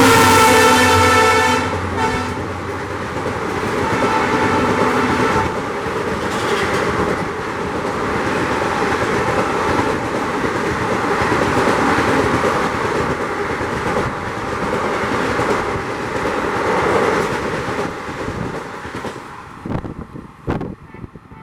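EMD WDP4 diesel locomotive's horn blaring as it passes at speed, then continuing lower and fainter to about five seconds in. The coaches then rush past with a rhythmic clatter of wheels over rail joints, fading near the end.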